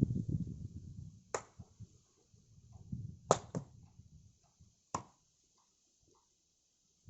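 Four sharp, separate knocks of wood on wood as firewood is worked, two of them close together in the middle. A low rumble of handling comes before them.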